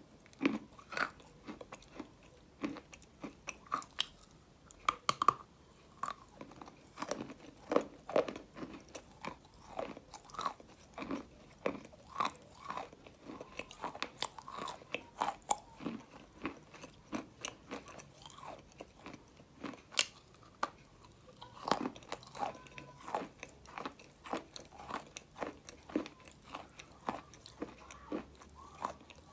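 A mouthful of dry white clay being chewed: an irregular run of crisp crunches, several a second, some louder than the rest.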